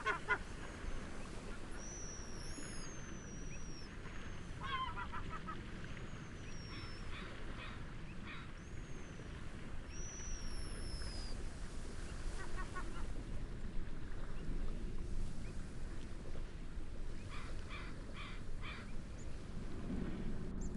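Birds calling over a steady low wash of wind and waves: short bursts of harsh honking calls come again and again, and high, thin, down-slurred whistles sound several times in the first half.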